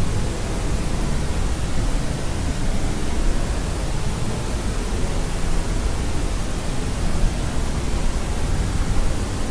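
Steady, unchanging white noise of the kind played to help a baby sleep, deeper and heavier at the bottom than a thin hiss.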